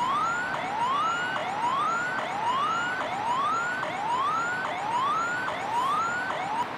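Siren sound effect: a rising whoop that climbs, drops back sharply and repeats about every 0.8 seconds, over a steady hiss.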